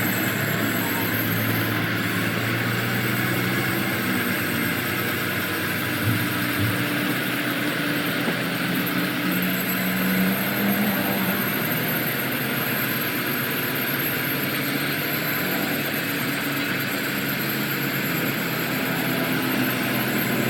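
A machine running steadily: a continuous mechanical drone that holds at an even level throughout.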